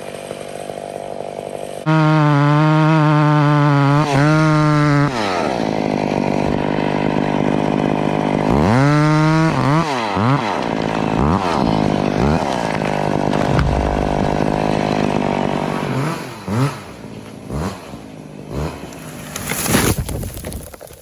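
Old McCulloch 850 two-stroke chainsaw held at full throttle for about three seconds, then dropping back to idle and blipped up and down several times.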